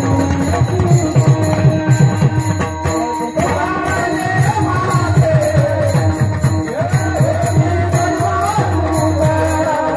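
Marathi devotional bhajan music: steady rhythmic drum strokes and jingling hand cymbals over held sustained tones. About three and a half seconds in, a wavering melody line comes in on top.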